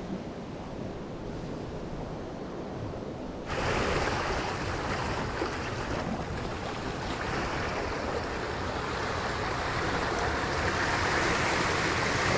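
Ocean waves and surf washing in, with wind on the microphone. About three and a half seconds in, the sound jumps louder and brighter.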